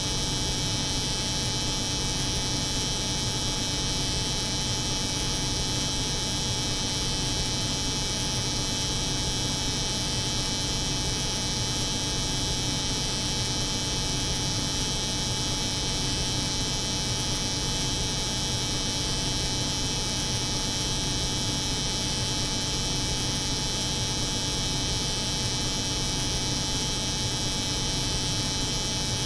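Steady electric hum of a hair clipper running, layered over the constant drone of a cold room's refrigeration unit. There are fixed tones and a bright high buzz, and nothing changes.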